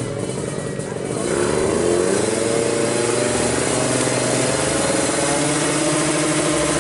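Drag bike's single-cylinder engine running on its paddock stand, the revs rising about a second in and then held at a steady fast idle.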